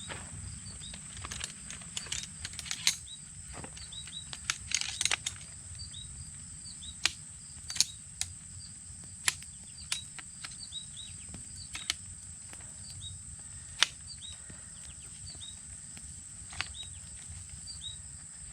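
Steady high-pitched insect drone with many short, repeated chirps, broken by scattered sharp clicks and snaps, a cluster of them around five seconds in.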